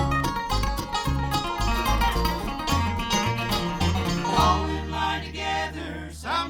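Bluegrass band playing live: fast banjo picking over guitar and a pulsing bass line. About four seconds in, the band settles onto a long held chord with a sustained low bass note.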